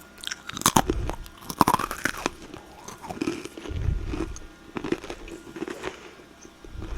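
Close-miked ASMR eating sounds: something crunchy being bitten and chewed, with irregular crackling crunches.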